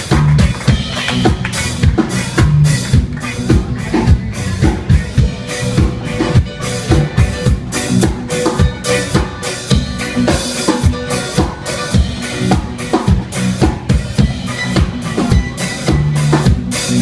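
Live reggae band playing, with drum kit hits (rimshots, snare and bass drum) in a steady beat over bass and other instruments.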